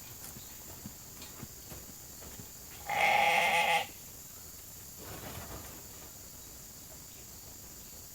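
Sheep bleating for their evening grain: one loud bleat about three seconds in and a fainter one about two seconds later.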